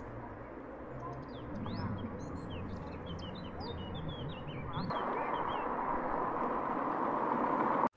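Many short, high bird chirps and peeps over a steady background hiss, which grows louder about five seconds in.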